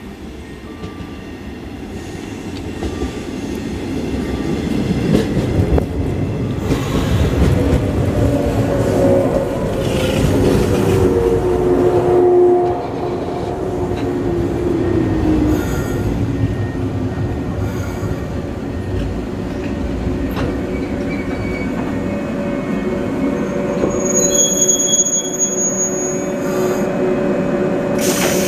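Electric local train pulling into the station and braking to a stop. Its running noise swells over the first several seconds, a whine falls in pitch as it slows, and a high brake squeal comes near the end as it halts.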